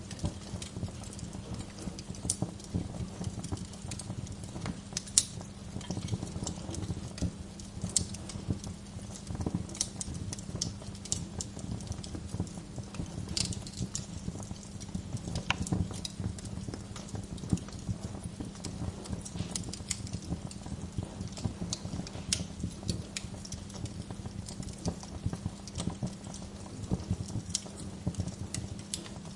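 Wood fire crackling in a fireplace: irregular sharp pops and snaps of burning logs over a low, steady rumble of the flames.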